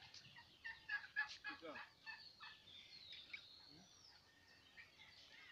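Turkeys calling faintly: a cluster of short, high calls about a second in, then scattered calls and gliding notes.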